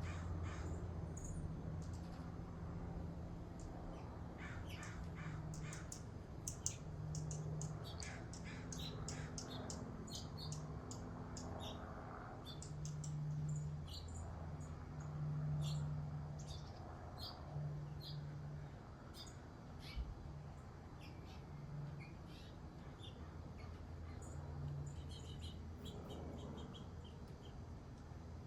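Wild birds chirping and calling outdoors, many short high notes scattered throughout, over a faint low hum.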